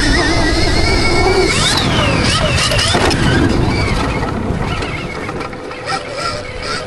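Motocross bike ridden on the track, its motor pitch sweeping up and back down with the throttle, over a heavy rumble of wind on the camera; it eases off near the end.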